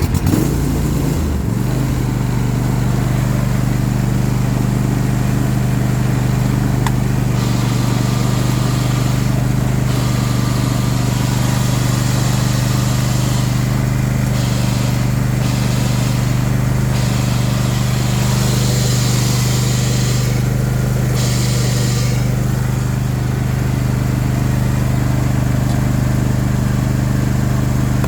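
John Deere S130 lawn tractor engine running steadily just after a choked start. Over it comes a higher hissing, grinding noise that cuts out briefly several times, which the mechanic takes for noise from the mower deck and its pulleys.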